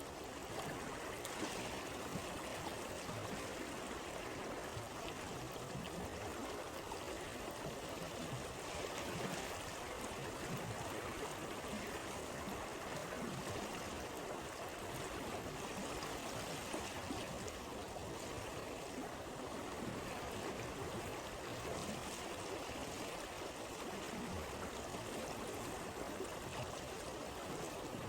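A flowing stream, a steady, even rush and babble of water with no break.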